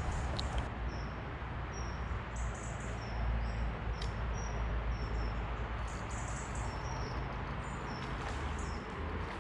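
Short high chirps repeating every half second or so, a small bird calling, over a steady low rumble.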